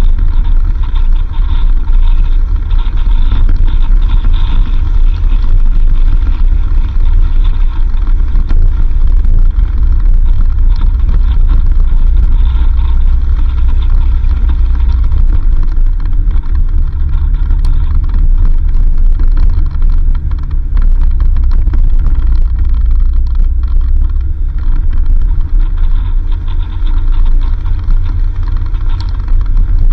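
A vehicle being driven, with a loud, steady low rumble of engine and road noise.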